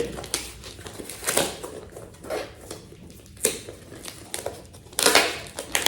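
Packaging being handled and opened by hand: irregular crinkling and rustling, loudest near the end.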